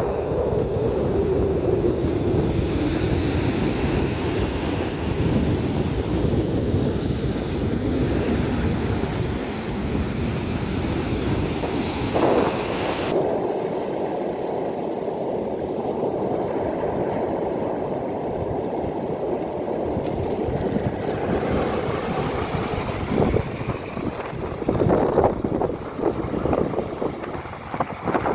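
Sea surf breaking and washing up a sandy beach in strong wind, with the wind buffeting the microphone in a continuous low rumble.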